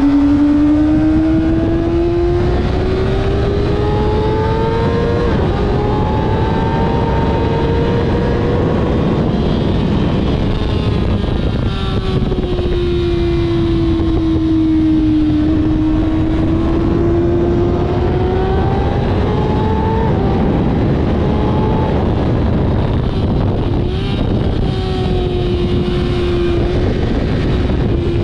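Kawasaki ZX-6R inline-four engine under hard acceleration on track, its pitch climbing and then dropping sharply at upshifts about five seconds in and again near twenty seconds. In the middle it falls off for a few seconds as the bike slows, then climbs again. Heavy wind rush runs under the engine throughout.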